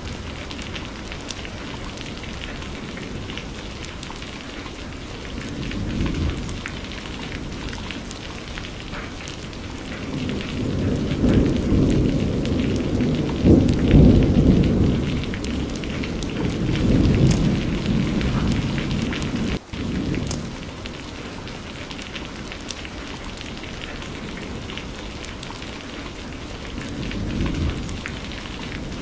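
Steady heavy rain with patters of drops, and rolling thunder: a short low rumble about six seconds in, a long louder one through the middle, and another short rumble near the end.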